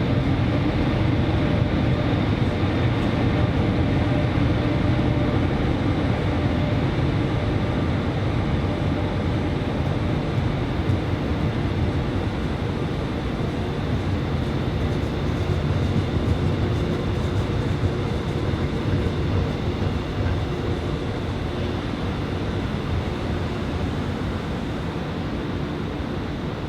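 Train running on the rails with a steady low rumble, easing slightly toward the end.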